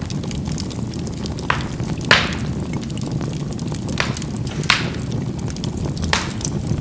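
Charcoal burning in a fireplace with a steady low rumble, with sharp pops about five times, the loudest about two seconds in.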